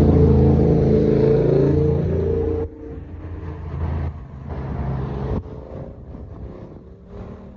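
A car engine running steadily close by, loud, cut off abruptly a little under three seconds in; after that, quieter engine noise with several sudden breaks.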